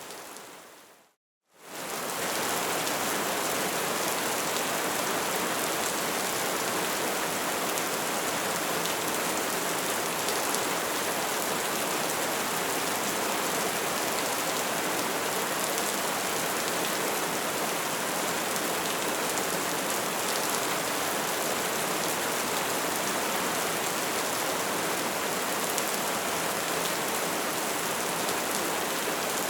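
Bonfire burning with dense, steady crackling and an occasional louder pop. The sound fades out to a moment of silence about a second in, then comes back at full level.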